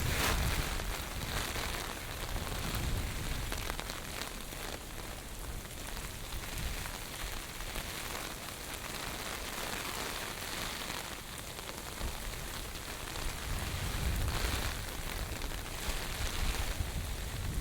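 Heavy typhoon rain falling steadily and pattering on surfaces. Gusts of wind rumble on the microphone at the start and again near the end.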